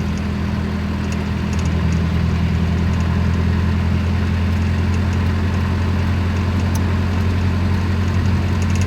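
Car engine and road noise heard while driving along, a steady low drone that grows a little louder about two seconds in.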